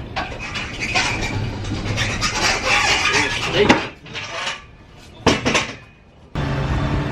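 Metal clanking and rattling, with sharp clicks, as the motorcycle is handled and strapped down. About six seconds in, a steady low hum starts abruptly.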